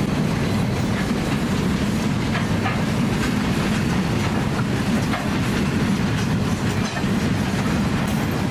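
Loaded grain hopper wagons of a freight train rolling past, a steady noise of steel wheels on the rails with occasional light clicks.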